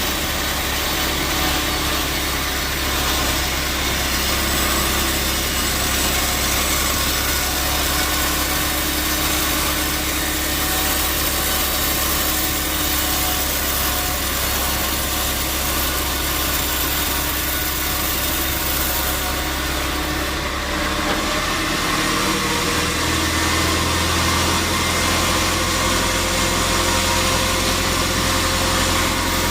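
Sawmill machinery running steadily: a motor's hum under a dense, hissing sawing noise. About two-thirds of the way through, the low hum shifts to a different pitch and grows a little louder.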